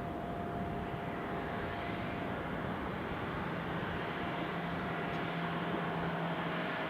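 Airbus A350-900 airliner on the ground, making a steady, even running noise with a constant whine over a lower hum.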